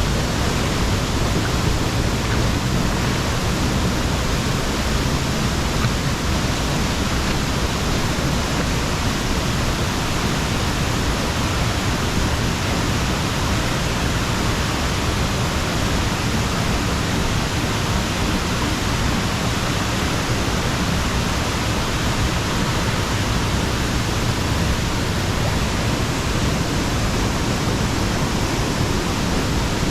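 Steady, loud rush of falling water, even and unbroken throughout.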